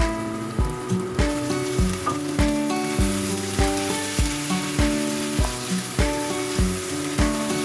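Chicken pieces sizzling in hot oil with onion and garlic in a nonstick frying pan as a wooden spatula stirs them. The sizzle grows louder about a second in, over background music with a steady beat.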